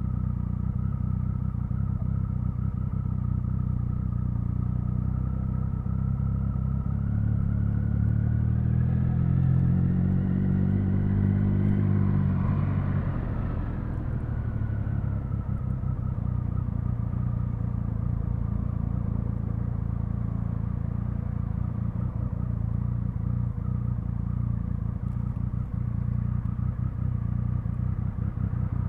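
Triumph Speed Triple 1050's three-cylinder engine and exhaust while riding: it runs steadily, pulls up in revs for several seconds about a quarter of the way in, then drops off sharply as the throttle closes, and goes back to an even cruising note.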